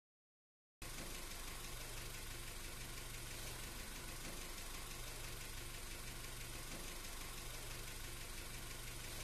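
Car engine idling faintly: a low steady hum under a hiss. The sound cuts in just under a second in, after dead silence.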